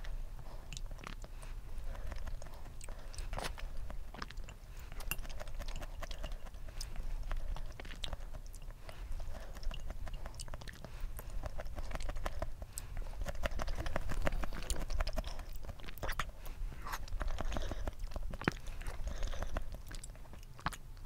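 Close-miked chewing of soft canned mango chunks, with many short wet clicks scattered throughout.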